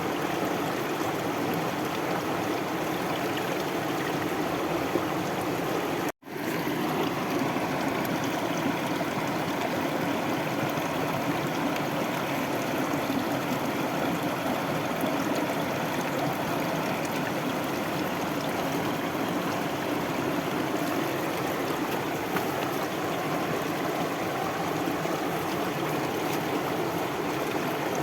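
Stream water flowing and trickling steadily. The sound cuts out for a split second about six seconds in.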